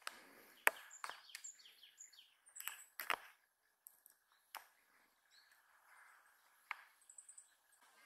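Wild birds calling: a quick run of short, sharp chirps and high thin notes, most of them in the first half, then a few scattered calls near the end.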